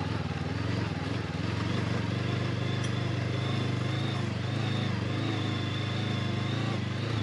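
Honda CB500X's 471 cc parallel-twin engine running steadily under load as the motorcycle climbs a steep hill.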